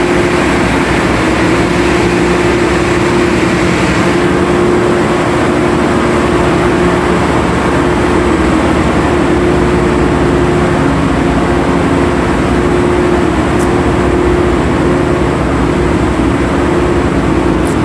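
The ore-dredging boat's engine running steadily: a loud, constant droning hum that holds an even pitch throughout.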